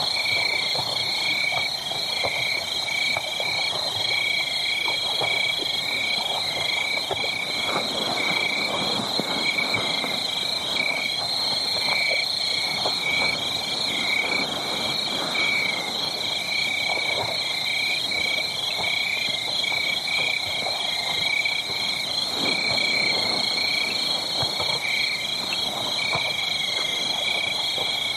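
Wood fire crackling with many small, irregular pops. Over it runs a steady, rapidly pulsing high-pitched chorus of calling animals.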